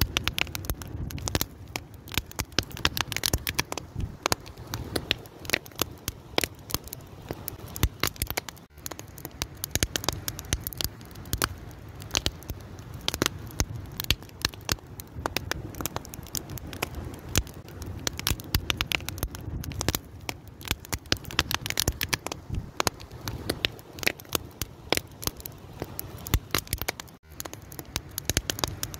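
A fire crackling, with dense irregular pops and snaps over a low steady rumble.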